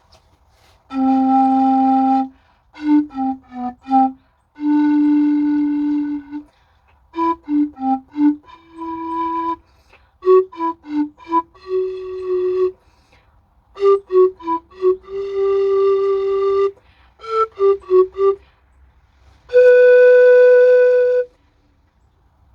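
Pan flute played by a learner: a slow tune of short stepping notes and longer held ones, phrase by phrase with pauses between, ending on a long, higher held note.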